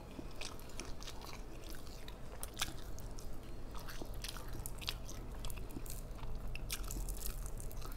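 Close-miked chewing and crunching of fried flounder, with small, irregular crisp clicks throughout as the fish is bitten and picked apart by hand.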